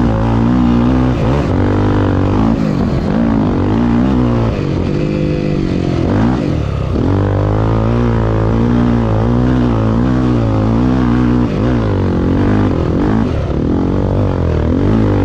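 Honda Tornado 250 single-cylinder four-stroke motorcycle engine under load, its pitch climbing and falling again and again as the throttle opens and closes, with a brief drop about six seconds in.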